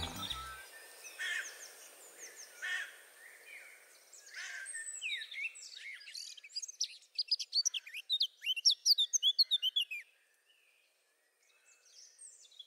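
Small birds chirping: scattered calls at first, then a dense run of many quick, high chirps for about five seconds, which stops abruptly about ten seconds in, leaving only a couple of faint chirps.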